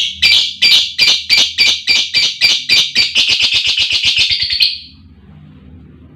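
Female lovebird calling: a run of shrill chirps that speeds up from about three to about six a second, then stops about a second and a half before the end.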